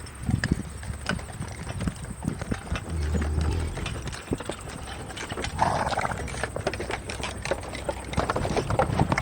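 Horse's hooves knocking irregularly as it moves about, with a short rasping burst about six seconds in.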